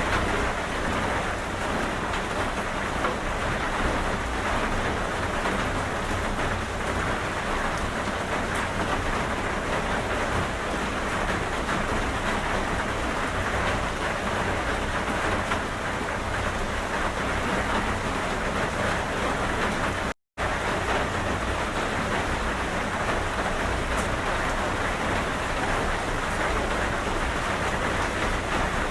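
Steady rain falling, an even hiss that cuts out completely for a split second about twenty seconds in.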